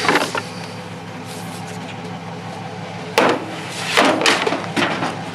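Several knocks and clanks of salvaged scrap items being handled: one at the start and a cluster near the end. Under them runs a steady low engine hum.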